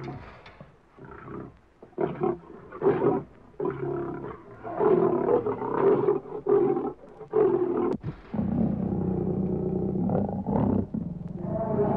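Lion roaring: a series of short grunting calls that grow louder and longer, then a long continuous call from about eight seconds in.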